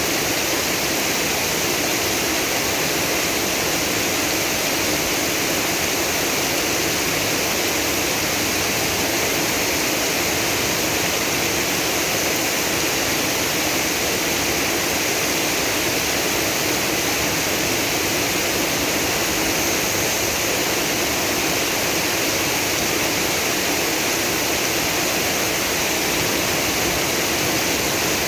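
Heavy rain pouring down with floodwater running in the street: a loud, steady rush of water.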